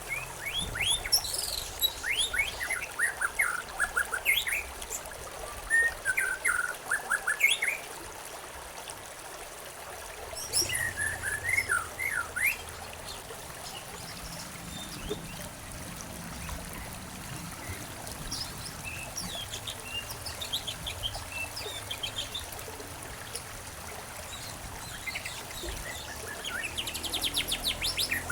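Songbirds chirping and singing in bursts of quick, falling notes, busiest in the first eight seconds, again around eleven seconds in and near the end, over the steady hiss of trickling water.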